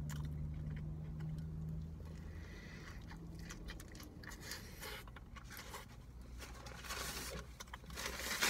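A person chewing a mouthful of burger, with small crunching and biting sounds. Near the end a paper napkin rustles.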